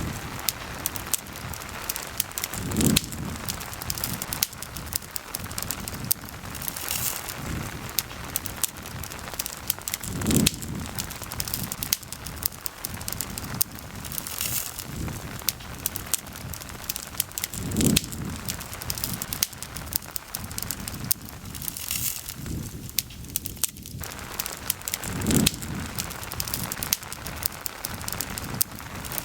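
Campfire crackling and popping over a steady patter of rain. A low swell rises and fades four times, about every seven to eight seconds.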